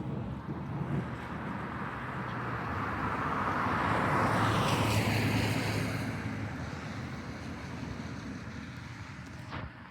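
A car driving past on a rain-wet road: tyre hiss and engine swell to a peak about halfway through, drop in pitch as it passes, and fade away.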